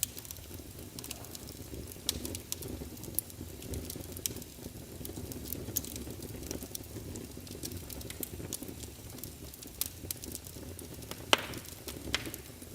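Wood fire crackling in a fireplace: a steady low rumble with scattered small pops and snaps, and one sharper pop near the end.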